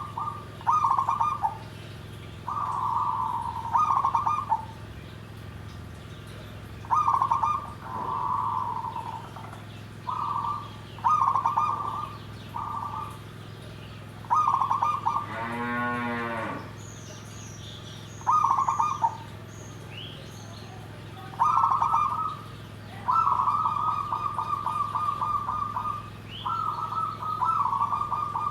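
Zebra dove (perkutut) cooing over and over: a series of rolling, pulsed coo phrases, each half a second to two seconds long, with short gaps between them. Small birds chirp faintly in the background, and a brief sound with a rising and falling pitch cuts in about halfway through.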